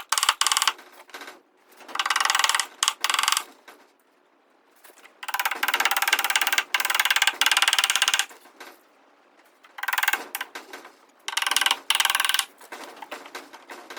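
A power tool run in repeated short bursts, about seven of them, each a fast mechanical rattle with short pauses between.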